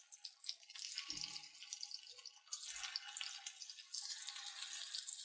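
Egg-coated chicken and potato kebabs shallow-frying in oil in a nonstick pan: a faint, steady sizzle with fine crackles. There are a couple of soft knocks as the patties are turned with a fork and spatula.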